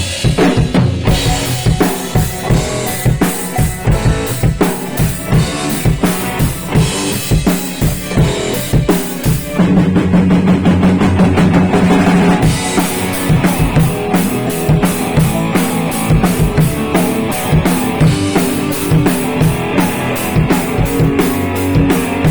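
A rock band playing an instrumental passage at rehearsal, with a drum kit loud on kick and snare over sustained bass and guitar. A held low note rings out for a couple of seconds in the middle.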